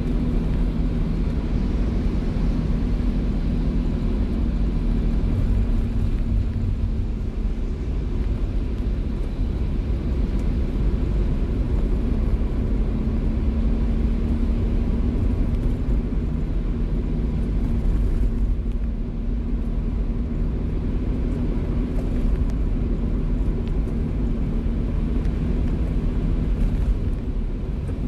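Car driving in the rain: a steady low engine and road rumble with a constant hiss of rain and wet tyres, unchanging throughout.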